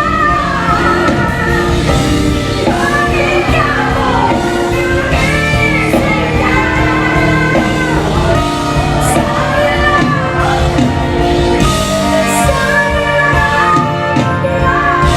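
Live pop ballad performance: a woman singing with a backing band that includes guitar, echoing in a large hall.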